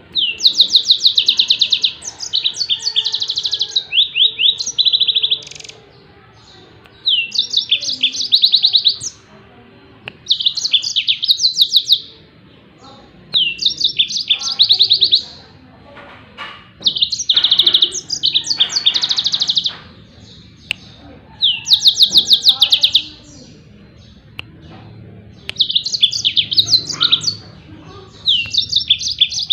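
Yellow-fronted canary (Mozambique canary) singing its rapid-fire 'tembakan' song. It gives loud bouts of fast, high, repeated trilled notes, each bout about two seconds long, with short pauses between them, about nine bouts in all.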